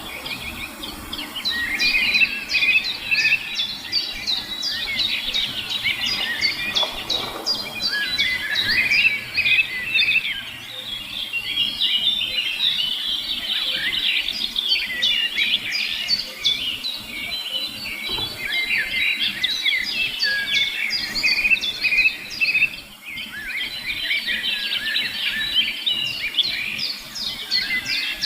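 Many small birds chirping at once: a dense, continuous chatter of short, high, overlapping chirps.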